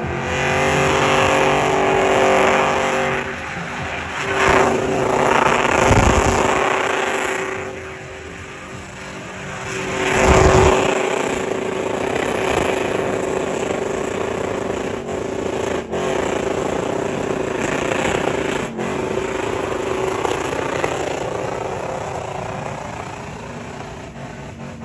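Motor vehicle engines running, with two louder swells about five and ten seconds in.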